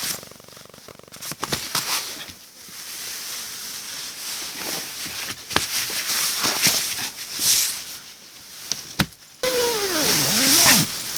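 Nylon hammock fabric and mosquito netting rustling, with scattered clicks and creaks, as a person climbs into a hanging camping hammock. Near the end the sound changes abruptly to a louder hiss with a pitched tone that wavers down and up.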